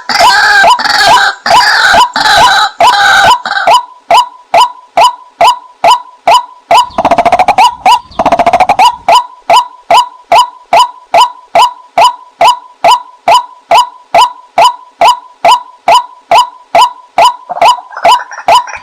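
Female white-breasted waterhen calling: an even run of short, sharp 'kwak' notes at about two and a half a second. A rougher chattering call overlaps them for the first three seconds or so and again briefly around the middle.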